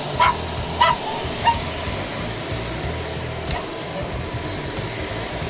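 Vacuum cleaner running with a steady hum. Three short, sharp, high sounds come in the first second and a half.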